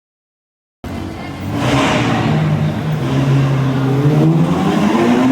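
Car engine running under load, starting abruptly about a second in, its note holding steady and then climbing near the end as the car accelerates.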